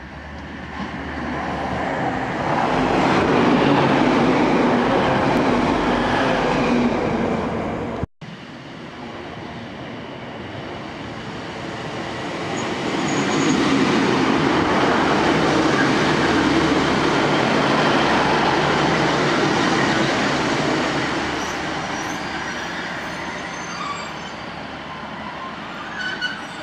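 Two passenger diesel multiple-unit trains running through the station platform, the rumble of engines and wheels on the rails swelling as each one comes close and then fading. The first pass is cut off sharply about eight seconds in. The second, a Class 150 Sprinter, is loudest midway and fades, with a few brief high squeaks near the end.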